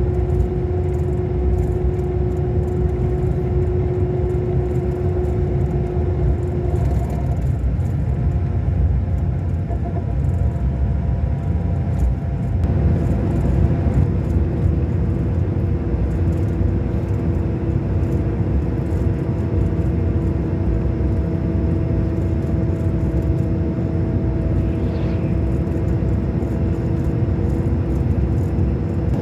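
Scania K400 Euro 5 bus's inline-six diesel engine running steadily, a deep rumble with a steady whine over it. The whine drops out for about six seconds a quarter of the way in, then returns at a slightly different pitch.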